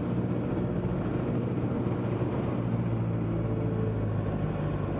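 Cessna 172's piston engine and propeller droning steadily, heard inside the cabin with airflow noise, on final approach with full flaps down.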